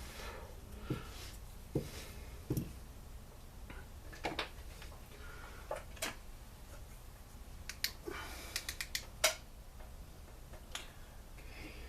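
Scattered light clicks and small knocks of hand tools and engine parts being handled during a two-stroke blower teardown, over a steady low hum.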